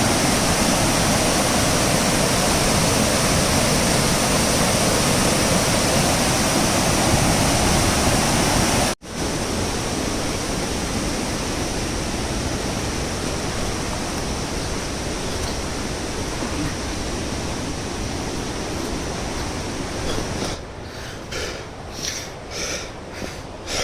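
Torc Waterfall's cascade rushing as a steady, dense roar of falling water. It breaks off for an instant about a third of the way in, then runs on a little quieter. Near the end it drops lower, with short irregular louder sounds over it.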